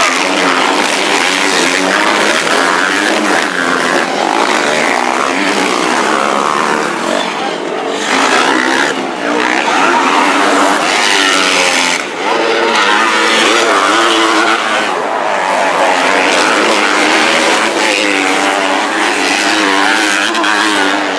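Several motocross dirt bikes racing, their engines revving up and down in pitch as the riders work the throttle and shift.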